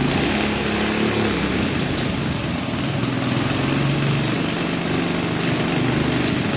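Honda CD100 100cc four-stroke single-cylinder petrol engine running steadily.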